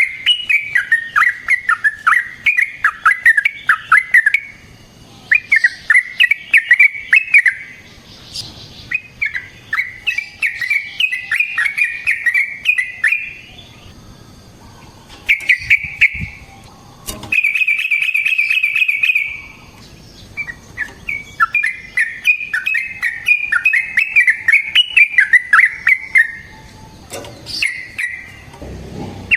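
Yellow-vented bulbul (trucukan) singing in runs of rapid chattering notes, each run a few seconds long with short pauses between. A fast, even trill comes a little past halfway through.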